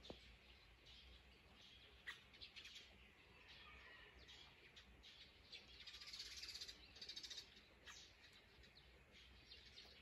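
Faint birdsong: scattered short chirps from small birds, with a rapid trill in the middle.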